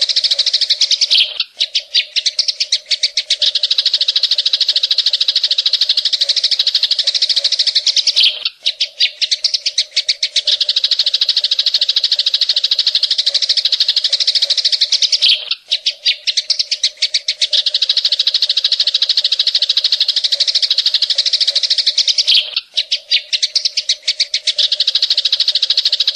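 Cucak ijo (green leafbird) singing a loud, harsh, rapid trill in 'tembakan cililin' style. Every seven seconds or so the song breaks into a short stutter of separate notes, then runs on as one long dense trill.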